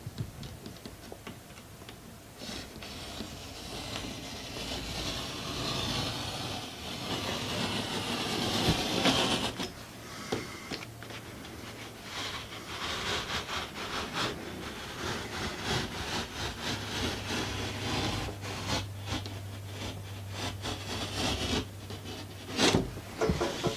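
Drywall being cut and broken out of a wall: rasping, scraping sawing sounds with scattered knocks, and a sharp crack near the end.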